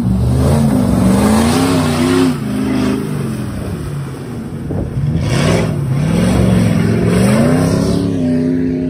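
Off-road competition vehicle's engine revving hard, its pitch climbing and falling as it accelerates and lets off, in two spells, the second starting about five seconds in.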